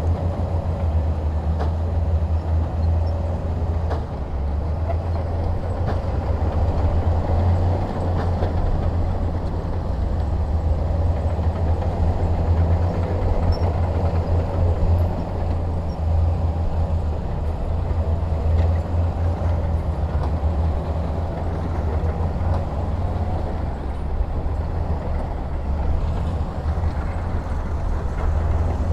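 Heavy diesel engine running steadily under load, a constant deep drone with a rough mechanical noise over it.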